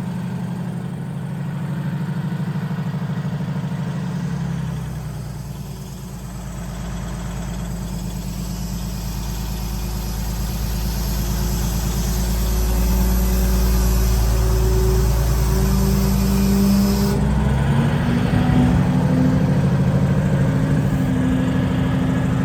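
Engine of a 1976 Drott 2510 truck crane running, with a deep low rumble setting in about five seconds in; the engine speed rises partway through, and it runs louder and higher near the end.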